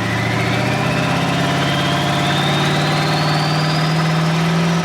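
Twin-turbo 5.3 LS V8 running at a steady speed, with a thin turbo whine climbing steadily in pitch over the engine note.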